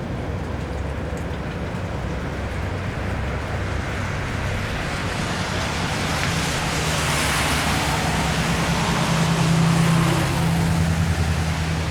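A vehicle driving past on a wet street: the hiss of tyres on the wet road swells gradually, joined by a low engine hum, both loudest a little before the end and then easing off.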